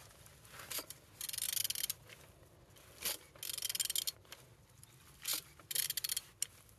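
A ratchet wrench turning the crankshaft of an Opel Z18XE 1.8 four-cylinder engine by hand, in three strokes. Each stroke is a single knock followed by under a second of rapid ratchet clicking. The engine turns over freely.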